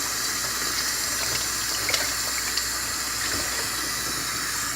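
Water tap running steadily into a sink, shut off right at the end.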